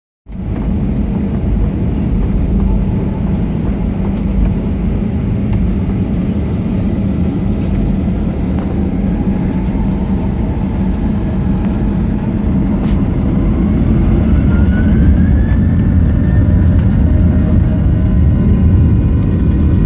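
Boeing 737-800 CFM56 jet engines running with a loud, steady rumble. A whine rises in pitch from about nine seconds in and the noise grows slightly louder, typical of the engines spooling up for takeoff.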